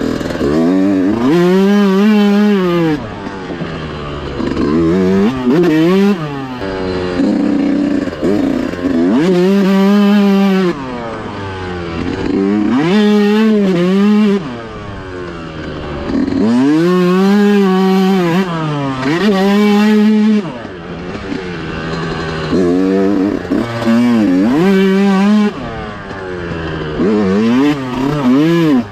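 Dirt bike engine revving hard and being ridden on a track: the pitch climbs, drops back and climbs again every few seconds, as it would through gear changes and turns.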